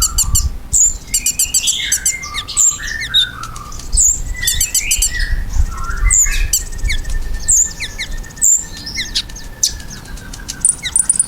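Kolibri ninja sunbird singing: rapid, thin, high chirps and fast trills in quick bursts, with a long thin whistled note drawn out and slowly falling in the second half.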